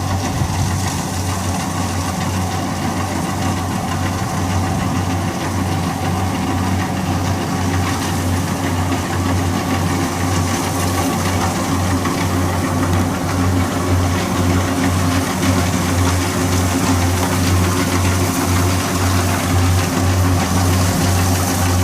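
Kubota DC60 rice combine harvester's diesel engine running steadily under load, a low pulsing drone with a mechanical whir above it.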